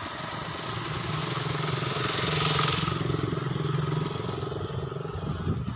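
A motor vehicle's engine running steadily, swelling louder about two to three seconds in and then easing off.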